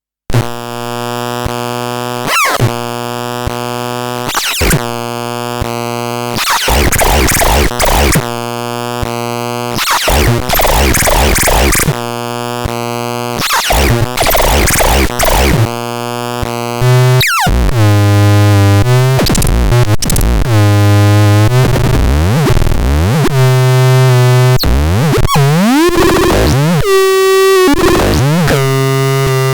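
Synthesizer playing loud electronic tones: held buzzy notes that change every second or two, with quick pitch glides between them and some noisy, grinding passages. About halfway through it drops to a lower, louder tone with rising sweeps.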